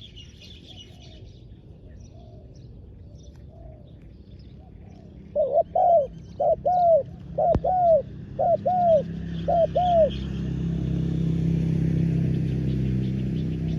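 Spotted dove cooing: about ten loud arched coo notes, mostly in pairs, from about five seconds in until about ten seconds in, over faint chirping of small birds. A steady low rumble builds after the cooing stops.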